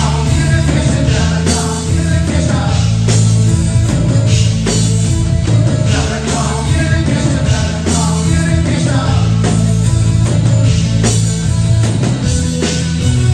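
Live new wave rock band playing loud and dense: a steady bass line, regular drum hits, synth and a lead vocal.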